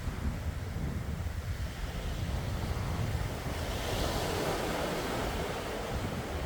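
Sea waves washing ashore, one wave swelling and surging in about four seconds in, over a low rumble of wind on the microphone.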